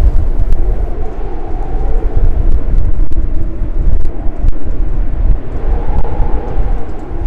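Strong blizzard wind gusting, rumbling on the microphone with a wavering howl that swells and fades.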